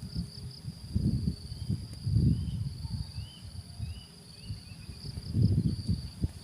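Outdoor ambience: a steady high insect drone, with a few short bird chirps in the middle. Low rustling thumps come about a second in, around two seconds in and again near the end.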